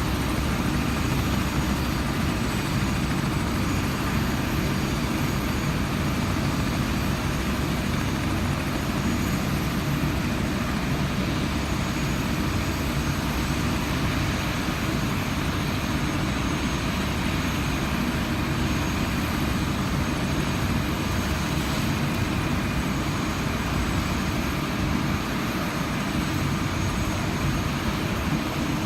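Helicopter in flight: steady rotor and engine noise, heaviest in the low end, with a few faint steady high whines above it.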